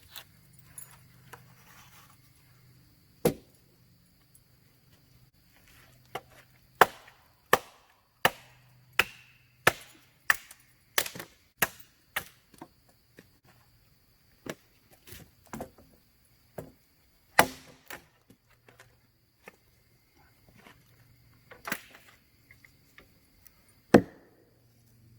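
Firewood being chopped by hand: a series of sharp wooden chopping strikes at an irregular pace, some single and some in quick runs. The hardest blows fall about seven seconds in, midway, and near the end.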